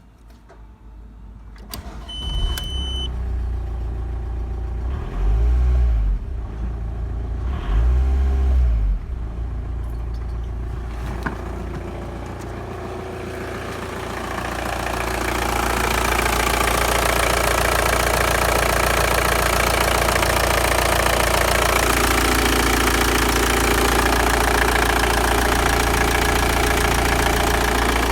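VW 1.9 TDI (AHH) four-cylinder turbodiesel engine running. It is blipped twice, about five and eight seconds in, then runs steadily and louder from about fifteen seconds on.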